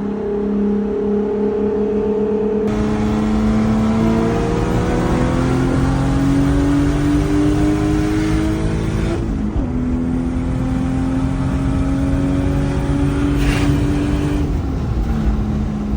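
Car engine pulling through the gears: its pitch climbs for several seconds, drops at a gear change about nine seconds in, climbs again, and drops at another shift near the end.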